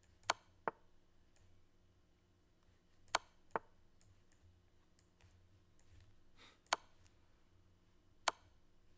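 Sharp, isolated clicks of moves being played in a fast online chess game, six in all, two quick pairs early and single clicks near the end.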